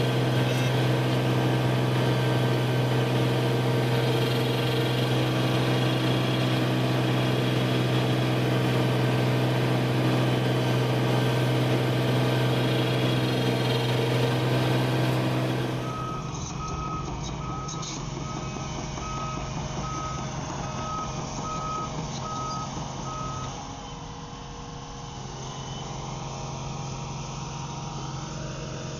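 A machine running with a loud, steady hum. About halfway through there is a cut to quieter engine noise, and a reversing alarm beeps about once a second, roughly eight times, then stops.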